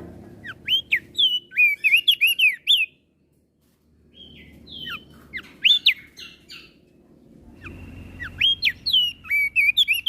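Opior jambul (crested white-eye) singing: quick runs of sharp whistled notes, each swooping up and down, in three bursts with a short break after about three seconds, over a low background hum.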